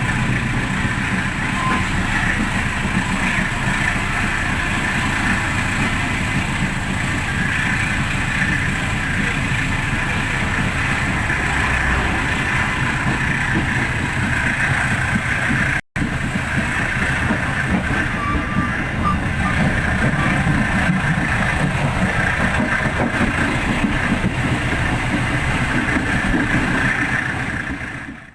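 Running noise of a moving passenger train heard from inside an economy coach: a steady rumble and hiss. The sound cuts out for an instant about halfway through and fades near the end.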